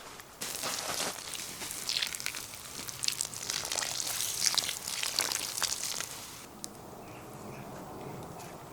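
Dense rustling and crackling with many small clicks, starting about half a second in and dying away after about six seconds.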